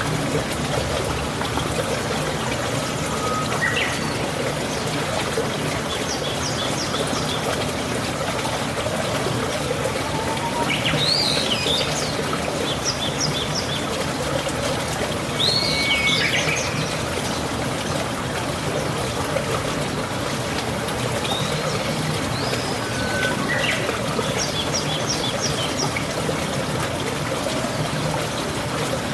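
Steady rain falling with trickling, running water. Birds chirp and whistle now and then over it.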